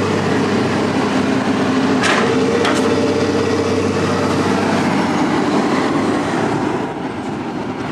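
Vehicle engine running steadily, with two short sharp metallic clicks a little over two seconds in.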